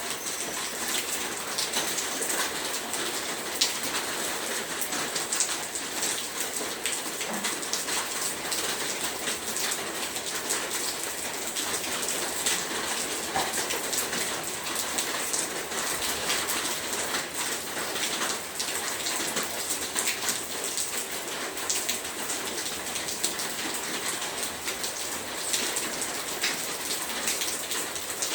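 Heavy rain falling steadily, a dense hiss of drops with many small sharp patters on a surface.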